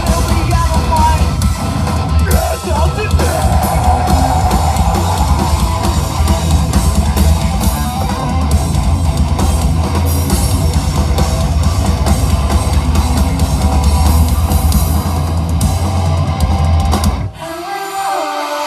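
Live rock band playing loud and heavy, with distorted electric guitars and a pounding drum kit. About 17 seconds in the band stops abruptly, leaving a few clean sustained notes ringing that step in pitch.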